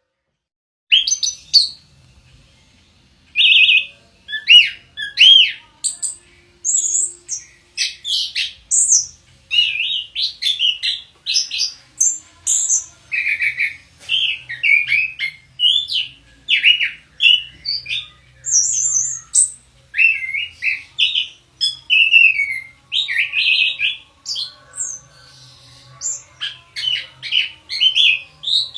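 Orange-headed thrush (anis kembang) singing: a fast, varied run of short whistled and chirping phrases. It starts about a second in and carries on with hardly a pause.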